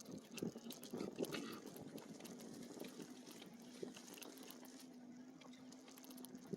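Faint crackle and ticking of e-bike tyres rolling over a dirt trail, with a low steady hum from about halfway through to near the end.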